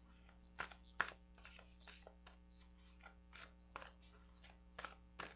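Tarot cards being handled and shuffled by hand: a series of soft, irregular card slaps and clicks, about two a second.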